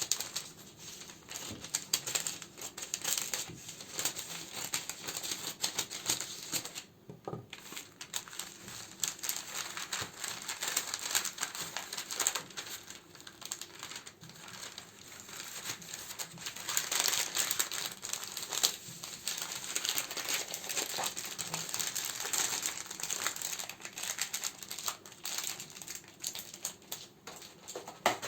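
Plastic and paper wrappings crinkling as candles are handled, with small taps and clicks of the candles and packaging. A brief pause about seven seconds in, then denser crinkling in the second half.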